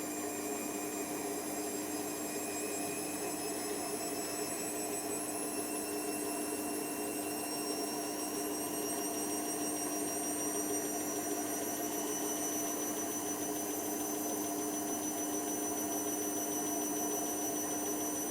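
Hoover Nextra washer dryer running, its drum motor giving a steady hum under a high whine that slowly rises in pitch, as when the drum speeds up.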